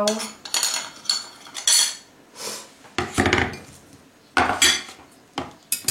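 A spoon scraping and clinking against a bowl in several short strokes while cocoa powder is spooned in.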